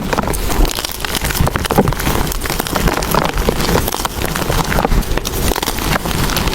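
Blocks of gym chalk crushed and crumbled by hand: a dense, unbroken run of crunching and crackling.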